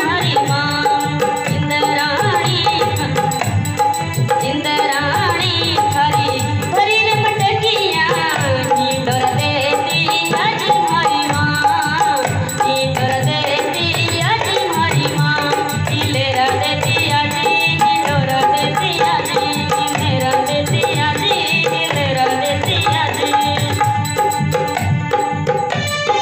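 Live Rajasthani devotional folk music played loud through a sound system: a woman's singing and melodic instruments over driving hand-drum percussion and a shaken rattle.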